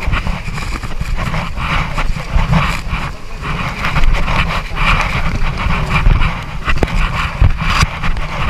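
River water rushing and splashing around an inflatable raft as it is paddled forward, in repeated surges, with a heavy low rumble of wind buffeting the microphone.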